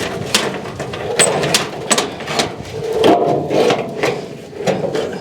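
Irregular metal clanks and knocks, several a second: the latches on a grain bin lid being worked open by hand.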